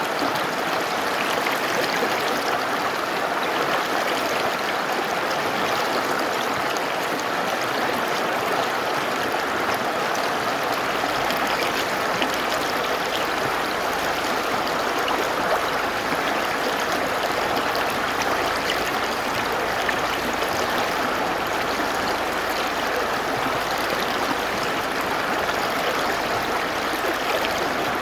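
Mountain river flowing: a steady, even noise of running water.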